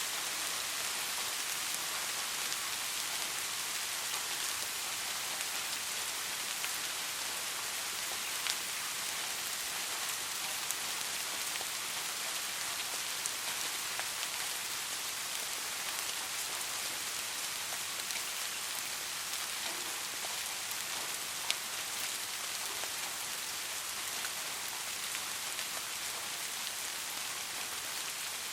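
Soft, steady rain: an even hiss of falling drops with a few sharper drop ticks now and then.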